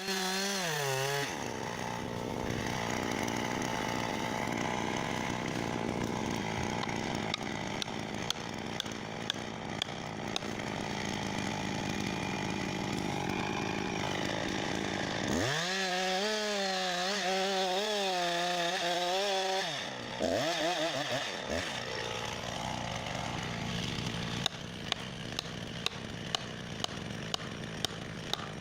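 Chainsaw cutting into a frozen tree trunk, the engine note shifting under load. Past the middle it runs at a clearer, steadier pitch for about four seconds, dips and swoops, then goes back to cutting, with a run of sharp ticks near the end.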